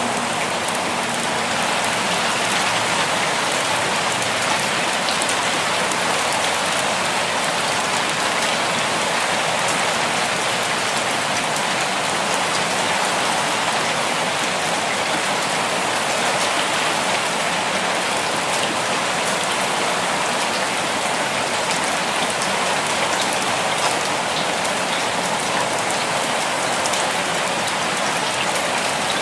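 Steady, gentle rainfall: an even hiss of rain with scattered individual drops ticking on a surface.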